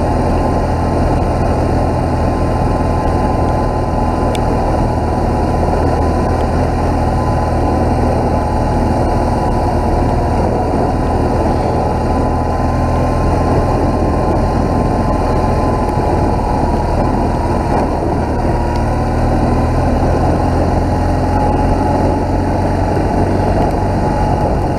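BMW R1200GS motorcycle's boxer-twin engine running at a steady pace while riding along a road, with no change in speed.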